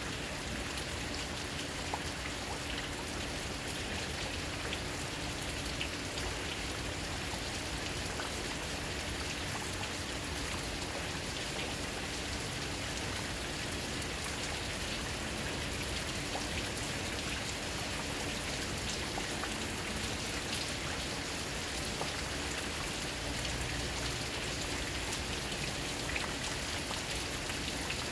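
Steady rain falling, an even hiss dotted with the faint ticks of single drops, with a faint steady hum underneath.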